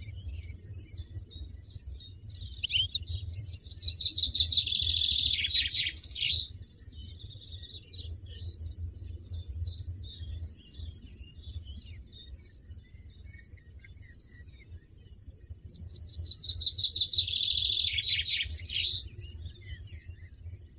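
European goldfinch singing: two loud bursts of rapid high twittering, the first about two and a half seconds in and lasting some four seconds, the second about sixteen seconds in and lasting three, with softer chirps between. A low steady rumble lies underneath.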